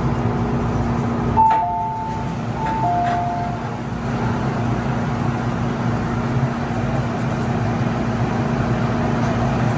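Inside an MTR M-Train car: steady hum with low rumble and rushing noise. About a second and a half in, a click is followed by a short two-note electronic chime, heard twice.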